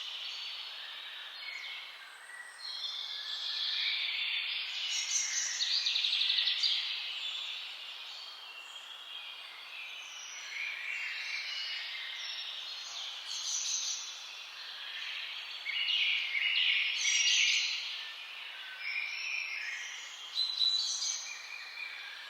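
Several birds singing and calling at once, a busy chorus of overlapping chirps and quick trills. It swells louder a few seconds in and again about two-thirds of the way through.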